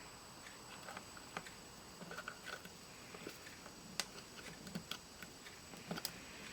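Faint, irregular small clicks and taps of tweezers and fingers handling a plastic 8-track tape cartridge, with a few sharper ticks.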